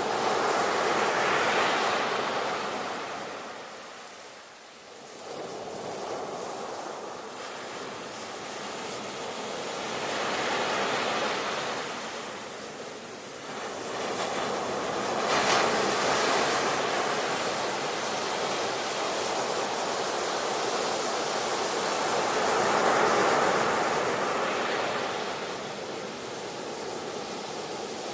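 Ocean surf: waves breaking and washing in one after another, the rush of water swelling and fading about four times, with a quiet lull about four seconds in and a sharper break near the middle.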